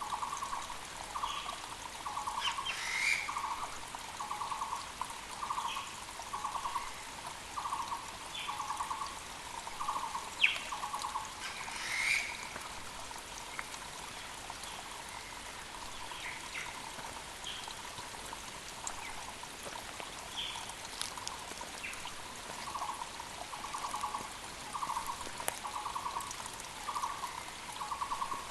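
Müller's barbet calling: short trilled notes repeated about once a second, pausing for several seconds midway and then resuming. Other small birds chirp now and then over the steady rush of a mountain creek, and there is one brief sharp sound about ten seconds in.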